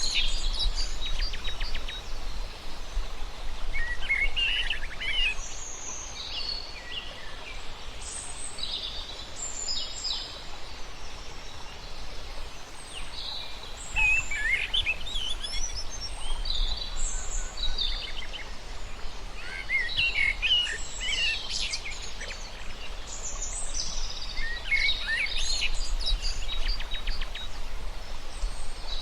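Several birds chirping and singing in overlapping short phrases, over a steady low background rumble.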